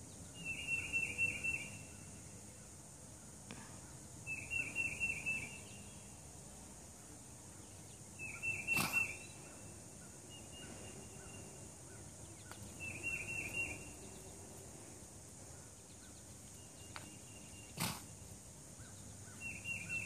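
A songbird singing a short, rapid phrase of about five notes, repeated every few seconds over a steady high hiss. Two sharp clicks sound, one about halfway through and one near the end.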